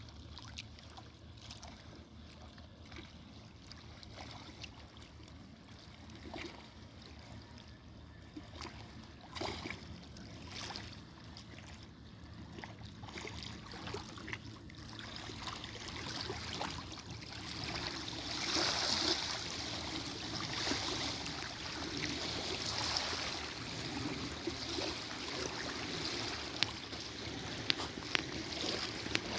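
Water trickling and splashing, growing louder about halfway through.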